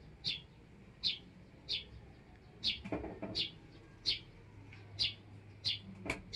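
A bird chirping over and over: short, high chirps, one about every two-thirds of a second. A soft knock about three seconds in.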